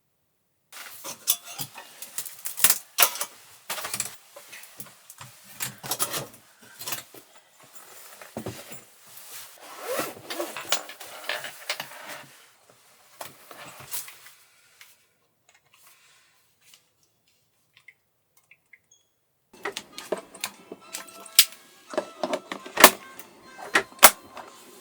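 Objects being handled: irregular clicks, knocks and rustles, stopping for a few seconds about fifteen seconds in, then sharper clicks and knocks resuming near the end.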